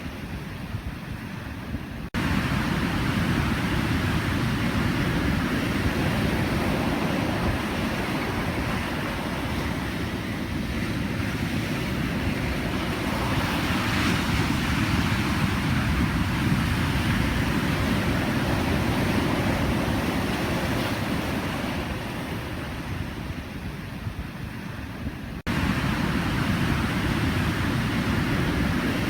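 Pacific Ocean surf: a steady rushing wash of waves that swells and eases. The level jumps up abruptly twice, about two seconds in and again near the end.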